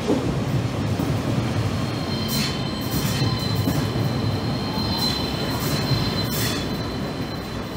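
Italo high-speed train's coaches rolling past along the platform, wheels rumbling steadily. A thin, high, steady squeal from the running gear sets in after about two seconds and fades near the end.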